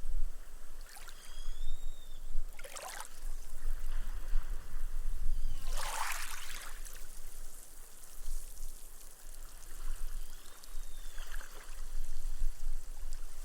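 Small, gentle waves washing up the sand and fizzing away as the foam soaks into it, in slow surges, the largest about six seconds in.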